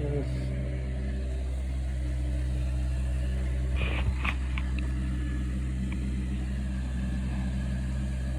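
An engine running steadily at constant speed, with a few sharp clicks or knocks about four seconds in.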